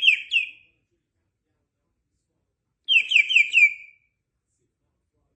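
Parrot whistling: a quick run of short, falling whistle notes that stops about half a second in, then a second run of four notes about three seconds in.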